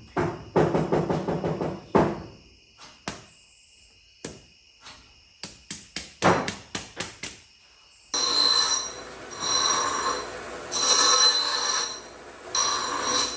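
Hammer blows on steel, sharp strikes that ring, coming in quick runs. From about eight seconds in, a power tool runs in four short bursts with a high whine.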